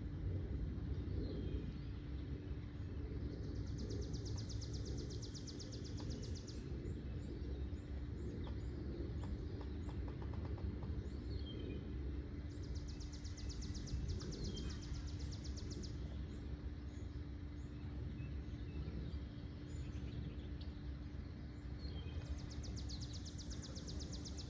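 Birds singing: a rapid, even trill about three seconds long repeats three times, roughly every nine or ten seconds, with short high chirps scattered between. Under it run a steady low rumble and a faint steady hum.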